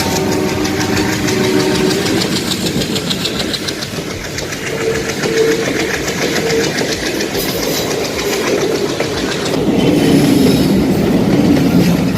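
A train passing through a single-track rock-cut railway tunnel: a loud, continuous rumble with the regular clatter of wheels over the rail joints.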